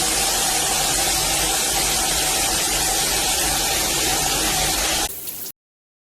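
Water spraying from a 12-inch rain shower head: a steady, loud hiss of falling water. It drops off about five seconds in, then cuts off suddenly.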